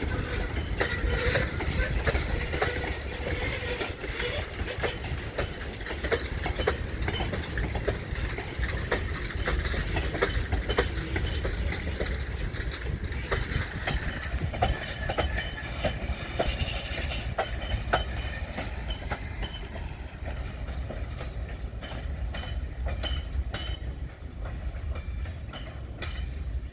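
Freight train rolling on the rails, a steady rumble with many sharp wheel clicks over rail joints, the higher sounds thinning out near the end.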